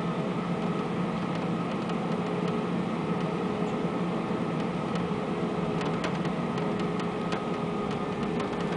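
Steady cabin drone inside an Airbus A320 with its engines running: an even hum with a few held tones, level throughout, with a few faint clicks near the end.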